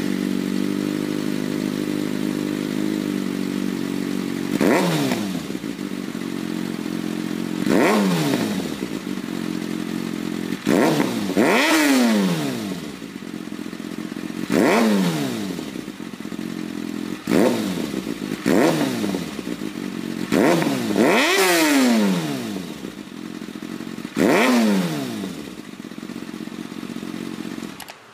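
Kawasaki ZX-6R's inline-four engine idling through a GP Tech Corse Project aftermarket exhaust, blipped about ten times so the revs jump and fall back to idle. The engine cuts off suddenly near the end.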